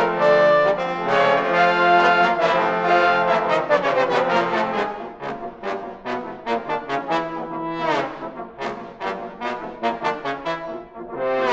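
A trombone ensemble playing: loud held chords for the first few seconds, then a softer passage of quick, short, detached notes, with a slide glissando partway through.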